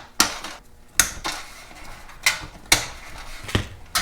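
About five sharp metallic clinks and knocks, spaced irregularly, from hand work on an old sheet-metal fluorescent light fixture as its ballast is being removed.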